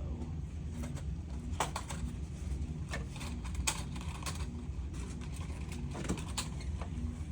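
Scattered light clicks and taps, about eight in all, from small crafting tools and plastic being handled on a work table, over a steady low hum.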